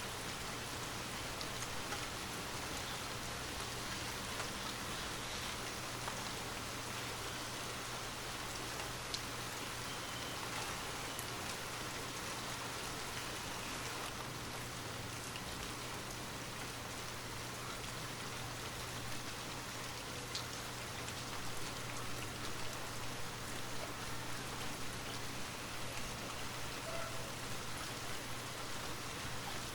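Steady rain falling on a surface, with scattered drops ticking.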